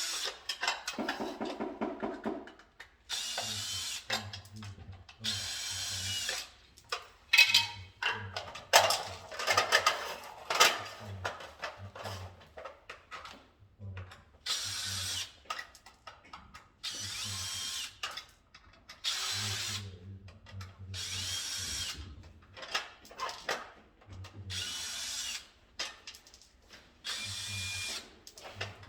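Cordless drill-driver running in short bursts of about a second, again and again, driving screws, with clicks and rattles between the bursts.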